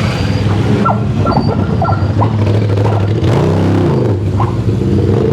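Motorcycle engines running on the road, one engine's pitch dipping and rising again about three and a half seconds in. A few short high chirps sound in the first two seconds.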